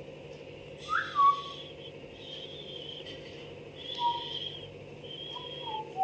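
Birds giving short whistled calls, the loudest about a second in sliding down in pitch, with a few lower single notes later, among stretches of higher buzzy chirping. A steady low hum runs underneath.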